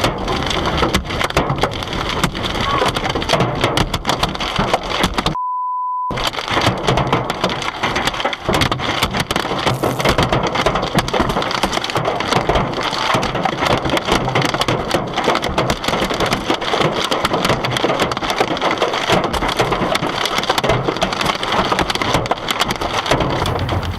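Hailstones pelting a car: a loud, dense, unbroken clatter of impacts. About five seconds in it is cut for under a second by a steady beep, a censor bleep.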